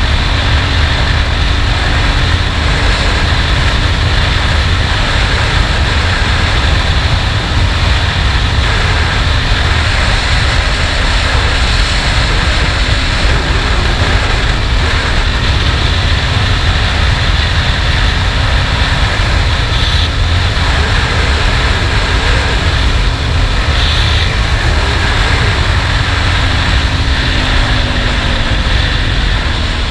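Honda XRE 300's single-cylinder engine running at a steady cruise under heavy wind rumble on the microphone. The engine note drops near the end as the bike slows.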